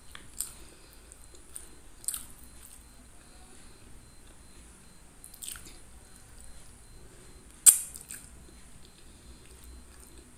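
A person chewing a mouthful of rice and curried fish eaten by hand, with wet mouth sounds and a few sharp smacking clicks. The loudest click comes about three-quarters of the way through.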